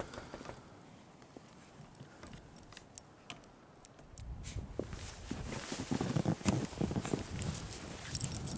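Footsteps crunching through snow, starting about four seconds in and going unevenly. Before them come a few faint, sharp jingling clicks.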